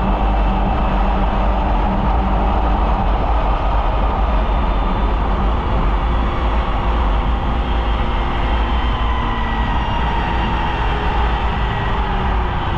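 Polaris Indy snowmobile running along a trail at a fairly steady speed. The engine note rises and falls gently over a heavy low rumble.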